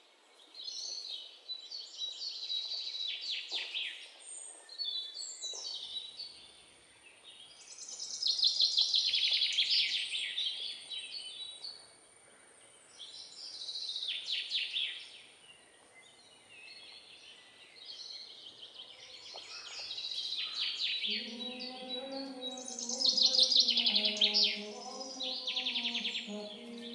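Birds singing, with repeated bouts of fast, high chirping trills. A soft, low stepped melody comes in near the end.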